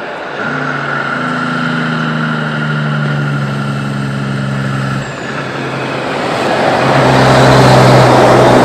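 Heavy truck's diesel engine running past on the road, a steady engine note that breaks off about five seconds in. Tyre and road noise then swells, loudest near the end, as the truck goes by close.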